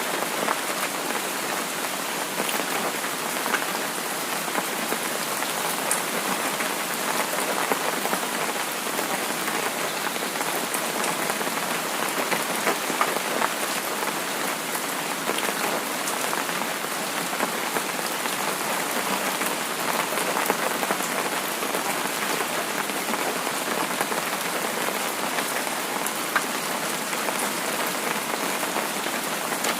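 Steady rain falling on a surface, an even hiss sprinkled with many small drop ticks.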